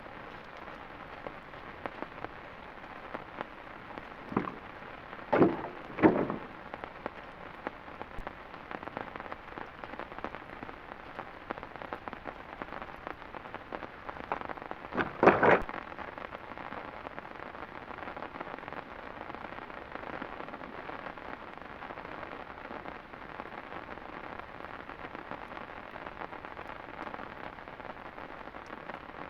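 Steady heavy rain falling. A few short, louder knocks or splashes come about four to six seconds in and again around fifteen seconds.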